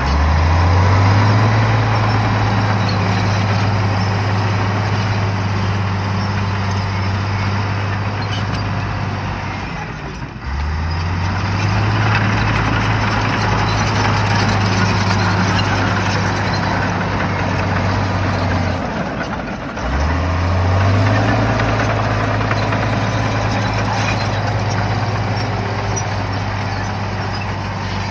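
Shantui bulldozer's diesel engine working under load in repeated pushes. It revs up at the start, about ten seconds in and about twenty seconds in, and eases off briefly between pushes, with a steady mechanical clatter underneath.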